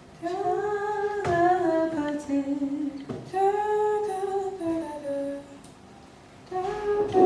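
A woman humming a melody in a mid-high voice, two phrases that each step downward in pitch, with a short pause before a third phrase begins near the end.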